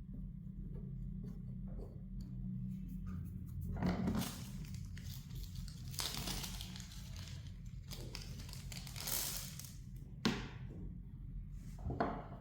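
Intermittent scratchy tearing and crinkling noises, a second or so at a time, from hand work on a phone during a screen replacement, with two sharp clicks near the end, over a steady low hum.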